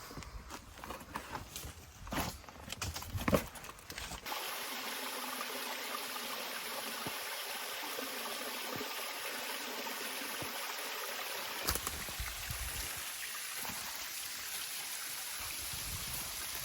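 Footsteps crunching through undergrowth in the first few seconds, then, about four seconds in, the steady rushing of a rainforest creek starts abruptly and carries on evenly.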